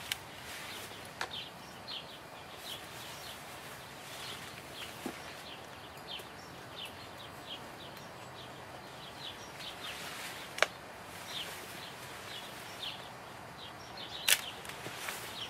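Small birds chirping over and over, short falling chirps, against a steady outdoor background, broken by a few sharp clicks, the loudest two about ten and fourteen seconds in.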